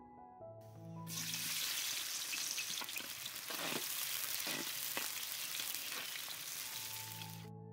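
Sliced red onions sizzling as they fry in hot oil in a large aluminium karahi, stirred with a slotted metal spoon. The sizzle starts about a second in and cuts off shortly before the end, with soft piano music at either edge.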